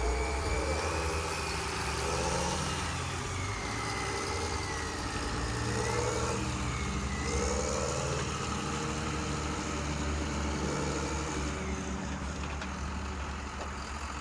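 A steady, low-pitched engine sound, with a thin, wavering high tone above it.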